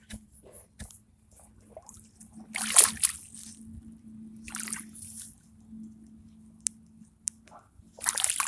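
Footsteps squelching and splashing through waterlogged, muddy ground: a few separate steps, the loudest about three seconds in and another near the end.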